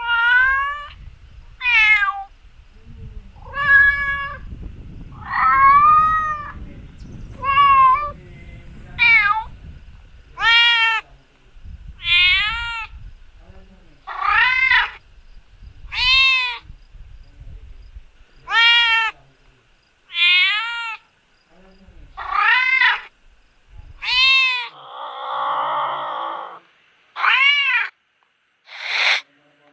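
A cat meowing over and over, one meow about every one and a half to two seconds, each rising and then falling in pitch. Near the end there is one longer, rougher drawn-out call.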